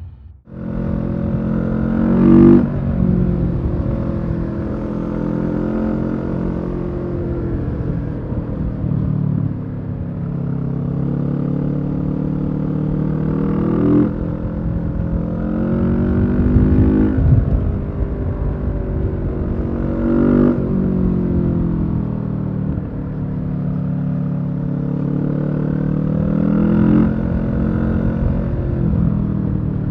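Kawasaki Z650's parallel-twin engine running through a Leo Vince EVO carbon exhaust while riding, the engine note climbing to a peak and falling away about four times.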